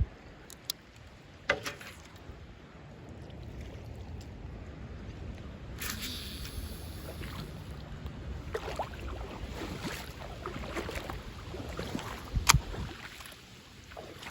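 Wind rumbling on the microphone over water sounds at the lake's edge, with scattered clicks and a sharp knock about twelve seconds in.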